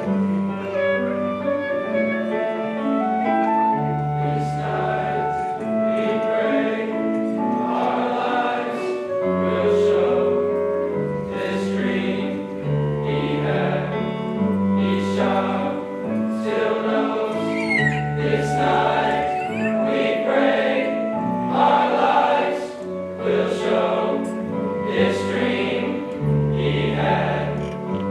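A school choir singing in harmony with instrumental accompaniment, over a low bass line that steps to a new note about every two seconds in a repeating pattern.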